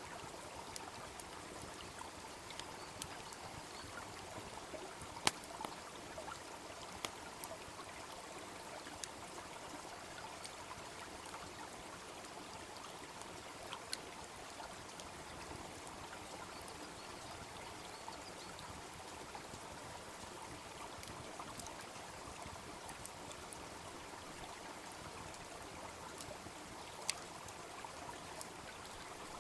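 Steady babble of a small brook, with a bonfire's sharp crackles and pops scattered over it; the loudest pop comes about five seconds in.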